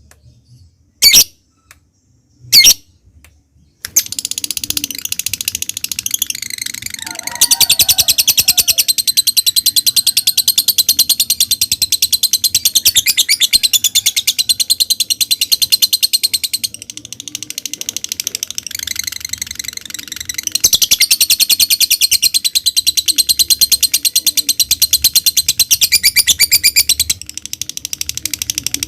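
Lovebird calling: a few sharp separate chirps, then from about four seconds in a long, rapid, unbroken high chattering trill (the 'ngekek'). The trill runs loud in two long stretches with quieter passages between them.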